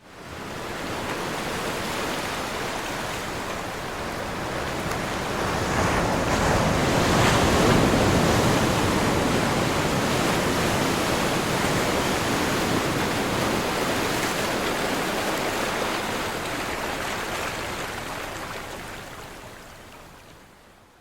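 Ocean surf: waves breaking and washing in as a steady rush of water noise that swells to its loudest about seven seconds in, then slowly dies away and fades out near the end.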